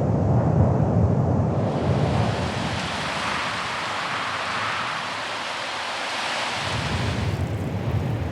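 Wind blowing hard: a low rumble of wind on the microphone, giving way for about five seconds in the middle to a higher rushing hiss, before the rumble returns near the end.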